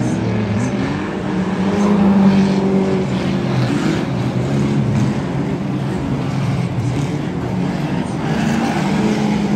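Several 2-litre banger racing cars' engines running hard and revving, their pitch rising and falling as the cars race round the track. They are loudest about two seconds in.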